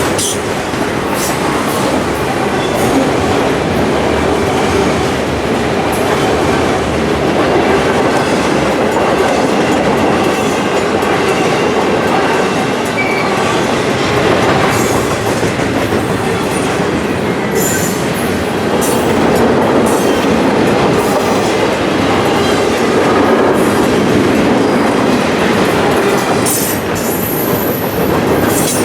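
Train cars rolling past close by: a steady rumble of wheels on the rails, with clicks as the wheels cross rail joints. There are brief high wheel squeals, one of them near the end.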